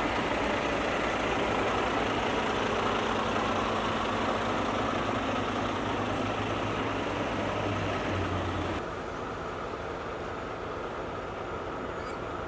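A heavy rotator tow truck's diesel engine runs at raised revs, driving the hydraulics while the boom is raised and moved in. Near eight seconds in the engine note lifts briefly, then about nine seconds in it drops back to a lower, quieter run.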